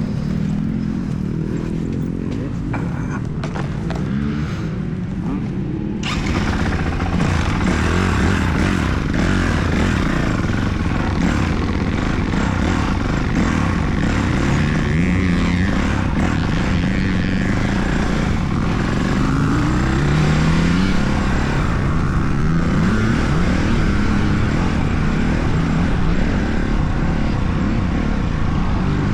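Motocross dirt bike engines running, their pitch rising and falling again and again as they rev. About six seconds in, the sound suddenly gets louder and brighter, with a hiss spreading across the high range.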